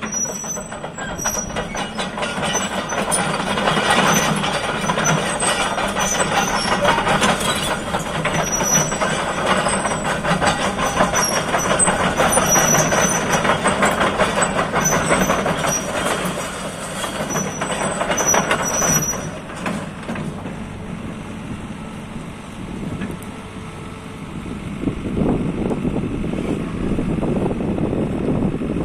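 JCB JS130 tracked excavator's diesel engine running hard, with short high-pitched squeaks over it. About two-thirds through, the sound drops back for a few seconds, then builds up again near the end.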